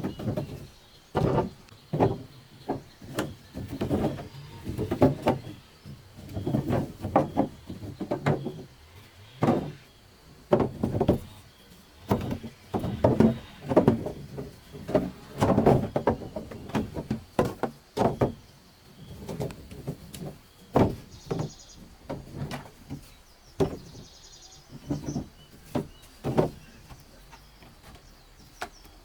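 Irregular knocks and thuds with rustling, as sugarcane stalks are cut and handled by hand. Faint bird chirps twice, past the middle.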